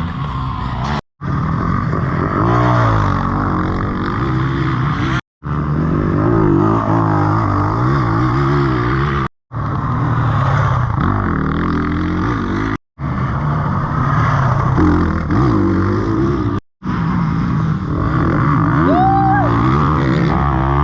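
Yamaha WR450F's single-cylinder four-stroke engine being ridden hard, its pitch rising and falling as the throttle opens and closes. The sound comes as several short clips cut together, with brief drops to silence between them.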